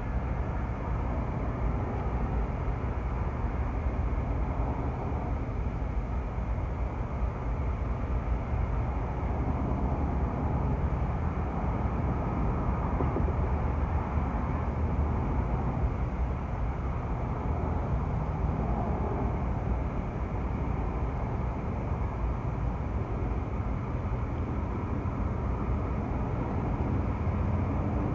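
A passing train: a steady, continuous low rumble with no breaks.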